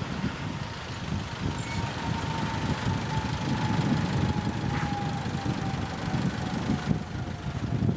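Electric commuter train running, a single whine slowly falling in pitch over a low rumble, with wind buffeting the microphone.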